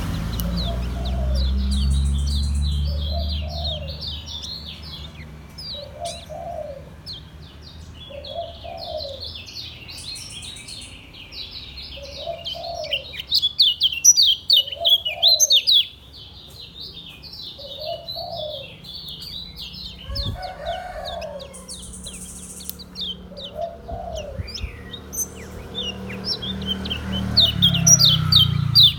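Kecial kuning (white-eye) singing its fast, continuous chattering 'ngejos' song of rapid high chirps, loudest about halfway through and again near the end. A dove coos steadily underneath, one short low coo about every second and a bit.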